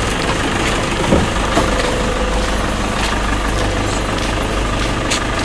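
A vehicle engine idling steadily, with a few sharp clicks over it.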